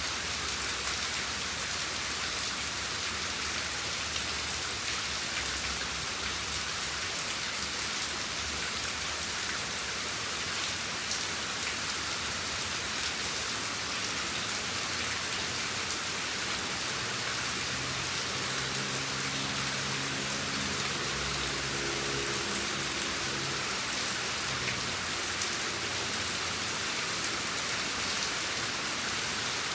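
Steady rain falling on a surface: an even hiss with scattered fine drop ticks. A faint low hum sits underneath from about the middle of the stretch until near the end.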